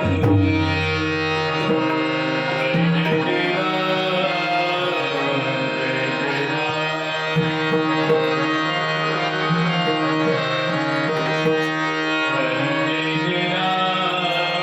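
Devotional bhajan music: a harmonium holding and moving between sustained reedy chords, accompanied by tabla and pakhawaj drumming.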